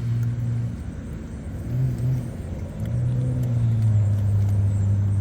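A low, steady hum with a clear pitch that breaks off briefly twice in the first three seconds, then carries on slightly lower.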